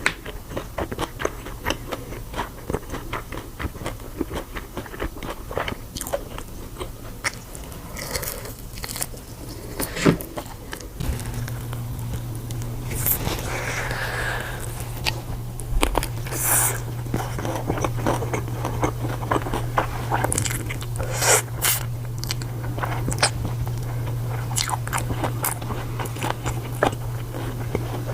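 Close-miked biting and chewing of crunchy food, with many irregular crisp crunches and smacks. A low steady hum comes in about a third of the way through.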